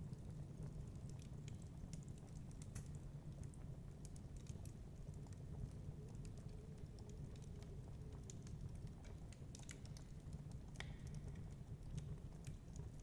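Wood fire crackling faintly in a fireplace: irregular sharp snaps and pops over a low, steady rumble.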